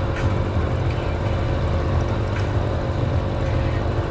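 A steady engine drone, even and unchanging, with a few faint ticks over it.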